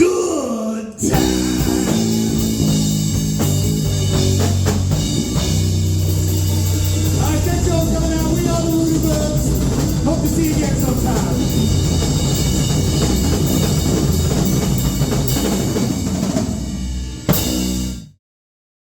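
Live blues-rock band playing the song's ending: a held sung note falls away, then drums, bass and electric guitar come in together at full volume. The band finishes on one last loud hit near the end, and the sound stops abruptly.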